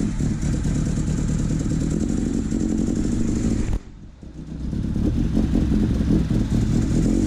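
Swapped Honda B18 four-cylinder engine running on its first start-up. It is missing some injector connectors, and it drops out suddenly about four seconds in before coming back about a second later.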